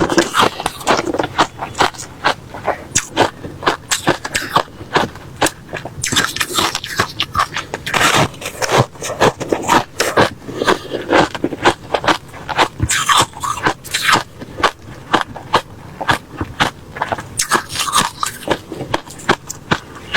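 A person biting and chewing refrozen crushed ice, a continuous run of sharp, crunchy bites several times a second.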